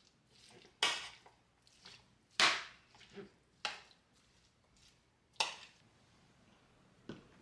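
Sharp knocks and clacks of objects being handled and set down, coming at uneven intervals of one to two seconds; the loudest is about two and a half seconds in.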